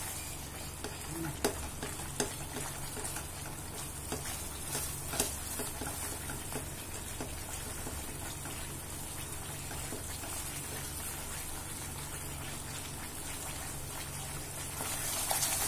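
Thick almond halwa frying in ghee in a non-stick pan, sizzling steadily while a silicone spatula stirs and scrapes it. A few light taps of the spatula come in the first several seconds. The ghee is separating out at the edges of the halwa.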